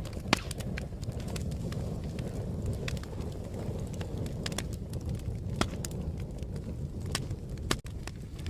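Wood fire crackling: irregular sharp pops and snaps over a steady low rumble of burning, with a few louder pops near the start and end.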